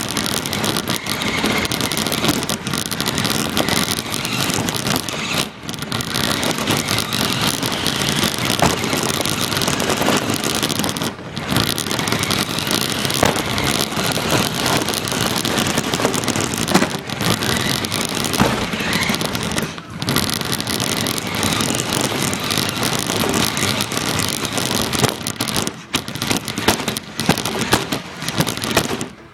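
An RC car driving, heard from a microphone strapped to the car itself: a loud, dense rushing and rattling of motor, wheels on the ground and wind on the microphone, with a few brief breaks.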